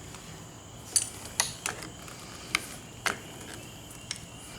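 About six sharp clicks and taps at irregular spacing, as hard parts of a motorcycle's clutch-side handlebar controls are handled and pushed into place. The clutch-side housing is being refitted over a new grip that does not yet look seated all the way.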